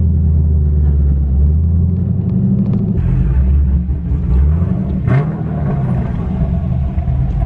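2011 Camaro's cammed 6.2-litre LS3 V8 running through a straight-piped exhaust with no mufflers, a deep, loud rumble. The engine note shifts about three seconds in and rises briefly a couple of seconds later.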